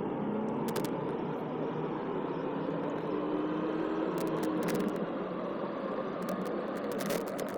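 A vehicle engine running on the move, with road and wind noise; its faint hum drifts slowly up and down in pitch as the revs change. Scattered sharp clicks ride on top.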